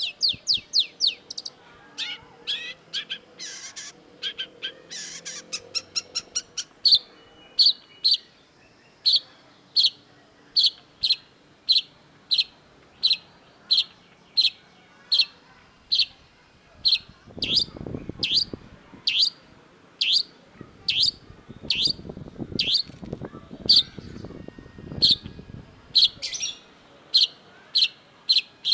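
Long-tailed shrike singing: a fast run of chattering, downslurred notes, then a long series of short, sharp, high notes repeated about one and a half times a second. A low rumble comes in twice about halfway through.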